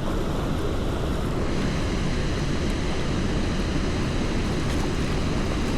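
Wind buffeting the microphone: a steady rushing and rumbling noise, heaviest in the lows, with no distinct events.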